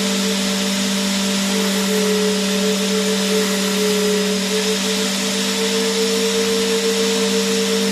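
Vacuum cleaner running continuously: a steady motor hum with a slightly wavering higher whine over a broad rushing hiss of air.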